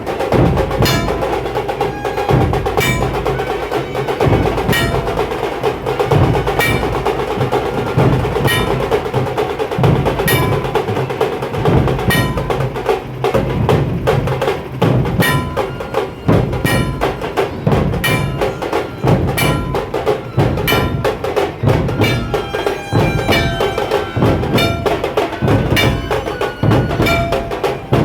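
Loud percussion-led music with a steady beat and ringing pitched tones over it; the beat quickens to about two strokes a second about halfway through.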